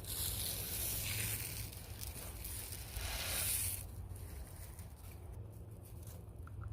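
Dry rustling and crinkling for about four seconds, then it fades to a faint low rumble.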